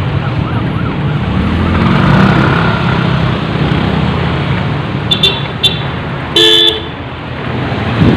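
Busy road traffic: vehicle engines running past in a steady rumble. About five seconds in there are a few short horn toots, followed shortly by one longer, louder horn blast.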